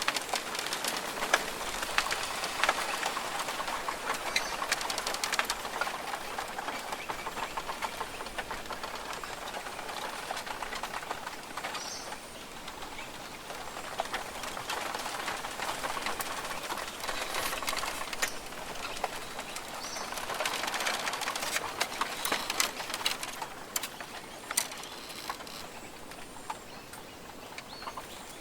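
Rainforest ambience: a dense, steady patter of rain or dripping water with scattered bird calls.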